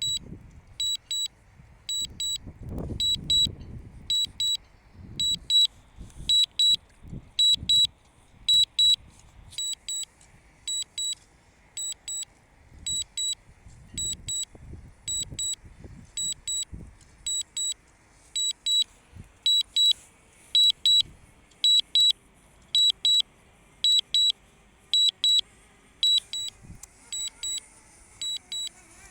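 High-pitched double beeps repeating about once a second: the DJI Mavic Mini's warning alarm from the controller and phone app, sounding for the drone's battery warning. Low rumbles and thumps run underneath.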